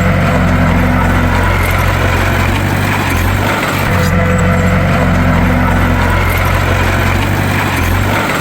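Bulldozer's heavy diesel engine running steadily under load, with a brief dip in the low rumble about every four seconds.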